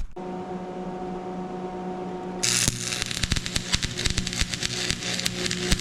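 Arc welder humming, then about two and a half seconds in the arc strikes and crackles steadily over the hum as a weld bead is run back over to melt it in more.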